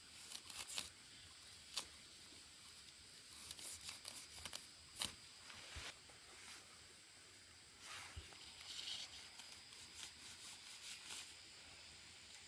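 Irregular rustling and tearing with sharp snaps and clicks in loose clusters, the sound of something being handled and torn by hand.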